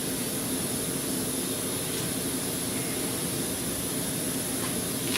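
Steady rushing noise of a running fan, with a faint high steady whine running through it.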